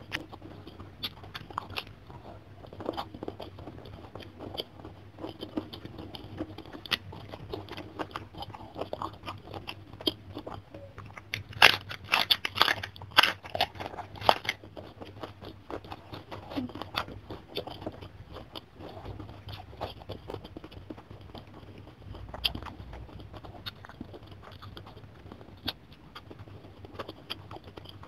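Close-miked chewing and crunching of a hand-eaten mouthful of rice, fish and crisp petai beans, with a run of louder crunches about twelve seconds in.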